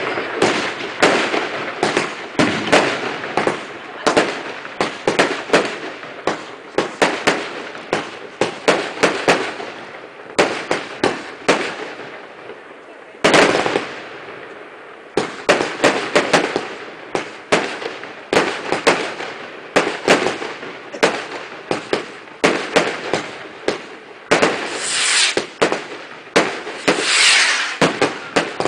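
Fireworks going off: a continuous run of sharp bangs and pops, often several a second. A sudden dense loud burst comes about 13 seconds in, and a run of crackling fills the last few seconds.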